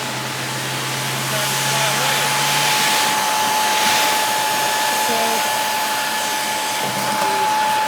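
Electric air blower running steadily, a rush of air with a constant high whine through it, the airflow swelling for a couple of seconds near the start.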